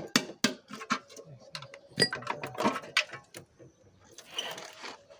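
Irregular clicks and knocks of hand tools on engine parts during an engine teardown, with a short rasping sound about four and a half seconds in.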